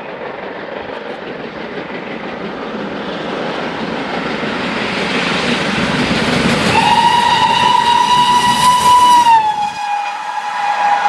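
A train approaches with a rumble that grows steadily louder. About seven seconds in it sounds a long single-note whistle, which drops in pitch as the train passes close by.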